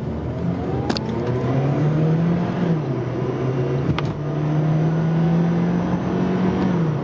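Mazda car engine accelerating from a stop, its pitch climbing steadily, then falling back as it shifts up about two and a half seconds in, then climbing again and shifting once more near the end. It pulls cleanly with no misfire under load, the random misfire cured by new spark plugs.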